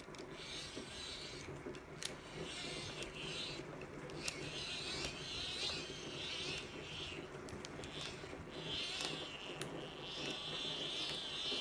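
Hand crank of a Sony ICF-B88 emergency radio being turned, its geared charging dynamo whirring in uneven spurts of about a second each. The whirring becomes steady near the end.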